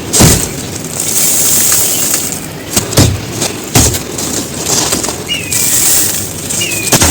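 Brittle dry chunks of hardened floor material being crumbled and crushed: a steady gritty crunching rustle, broken by four sharp cracking snaps, one about a second apart near three seconds in, and one near the end.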